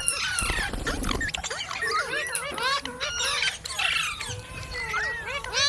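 Several green parrots chattering together: many short whistled calls rising and falling over one another, with a loud squawk near the end.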